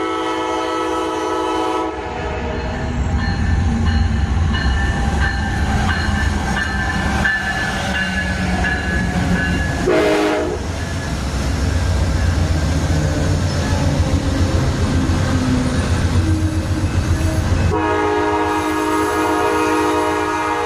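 Amtrak P42DC diesel locomotive sounding its multi-chime horn: a blast at the start lasting about two seconds, a short toot about ten seconds in, and a long blast starting near the end. In between, the train's diesel rumble and wheels clicking over rail joints.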